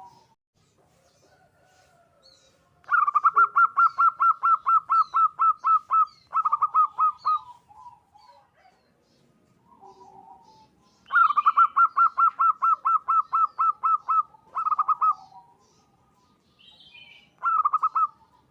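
Zebra dove (perkutut) singing. It gives two long bouts of rapid, evenly repeated coo notes, about seven a second, a few seconds apart. Each bout is followed by a shorter phrase, with soft low coos in the gaps.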